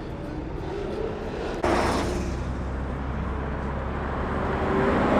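Fast cars on a freeway, engines and exhaust running under road noise. About a second and a half in it suddenly gets louder with a short rushing hiss, and toward the end an engine note climbs as a car accelerates.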